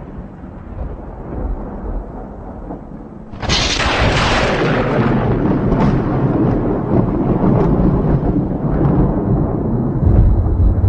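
Thunder: a low rumble, then a sudden sharp thunderclap about three and a half seconds in that rolls on as a long rumble, swelling again near the end.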